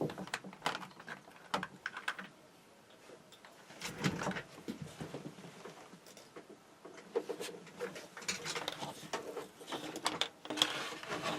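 Hands handling small parts, heat shrink tubing and fine wire, at a workbench: irregular light clicks, taps and rustles.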